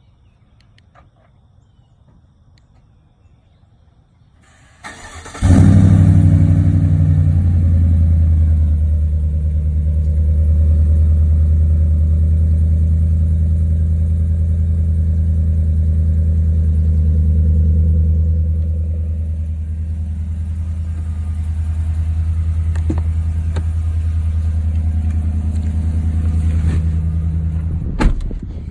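Cold start of a Chevrolet 5.3L V8 breathing through a straight-through Magnaflow muffler with dual split rear tailpipes: about five seconds of quiet, a brief crank, then the engine catches with a loud flare and settles into a steady fast cold idle. A sharp click sounds near the end.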